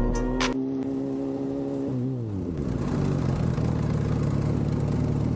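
Motorcycle engine running at a steady pitch. About two seconds in, the revs drop and it settles into a lower, steady note.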